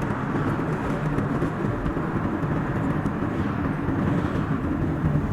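Steady road and engine noise of a car driving on a highway, played back at double speed.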